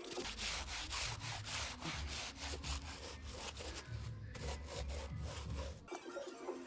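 Fast, evenly repeated scraping strokes over a low rumble, stopping about six seconds in.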